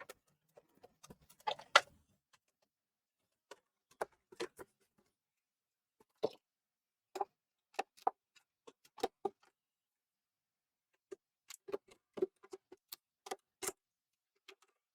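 Scattered small hard clicks and taps of screws and tools being handled on a workbench, irregular, with a cluster of quick clicks near the end.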